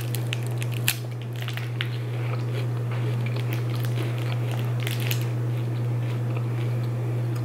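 A crispy rice cereal treat being bitten and chewed, with small crunches, a sharp crunch about a second in, and a steady low hum underneath.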